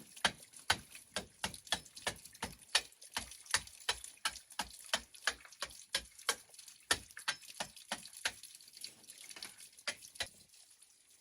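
A regular series of sharp taps, about three a second, growing sparser and stopping about ten seconds in.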